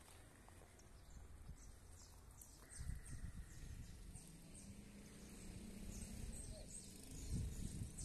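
Faint outdoor ambience: small birds chirping, short high chirps repeating throughout. A low rumble joins about three seconds in.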